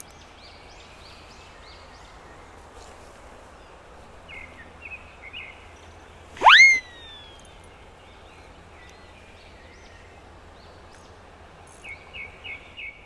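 Small birds chirping over a steady outdoor hiss, with one loud, sharp rising whistle about six and a half seconds in.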